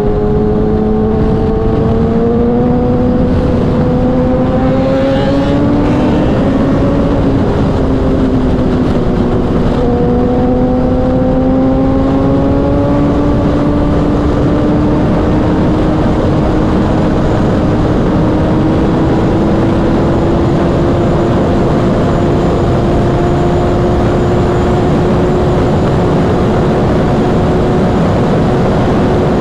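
Kawasaki inline-four sportbike engine pulling at highway speed under heavy wind rush: the engine note climbs slowly, eases off briefly about seven seconds in, climbs again and settles into a steady high-rev drone.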